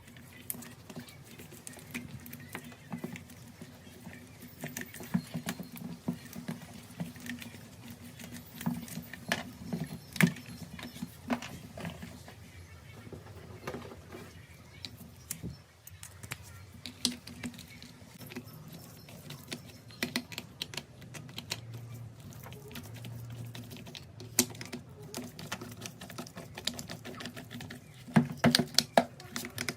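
Irregular small clicks and taps of hand tools and metal and plastic parts being handled while a rotary hammer drill is worked on, over a steady low hum; a quick run of louder clicks comes near the end.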